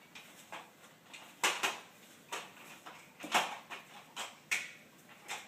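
A string of about eight short, irregularly spaced scrapes and knocks, the loudest about a second and a half in and again past the three-second mark.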